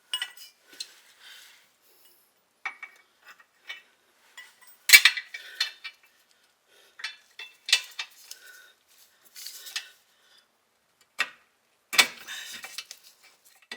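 Scattered metallic clinks and knocks of tools on steel as the lower shock bolt is worked out of its bushing, with the loudest knock about five seconds in.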